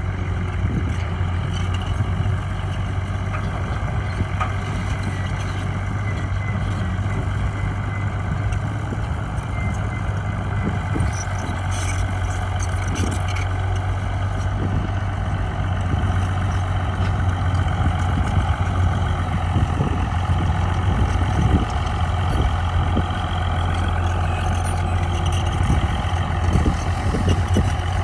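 Heavy diesel engine of earthmoving machinery running steadily under work, its engine note shifting in pitch about two-thirds of the way through, with scattered knocks and clanks.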